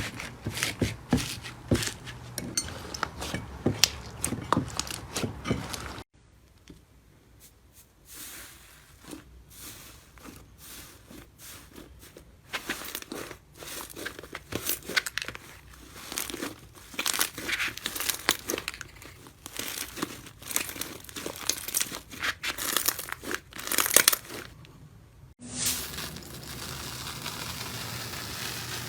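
Slime being squeezed and pressed by hand, making rapid crackling, popping and crinkling clicks, in three separate clips that cut abruptly about 6 seconds and 25 seconds in; the middle clip starts quiet and grows louder, and the last is a softer hiss with small ticks.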